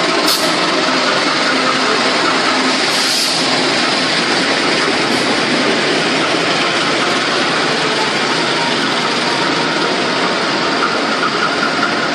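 CC 201 diesel-electric locomotive pulling a passenger train slowly into the platform: its engine runs and the coaches roll past in a steady, loud rumble. Two short hisses come through, one just after the start and one about three seconds in.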